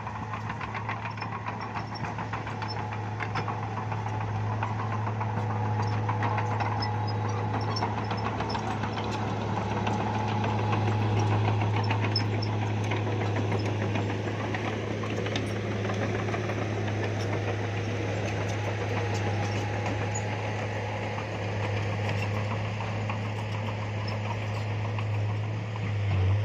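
Bulldozer's diesel engine running steadily, its level swelling and easing, with a rapid clatter over the hum.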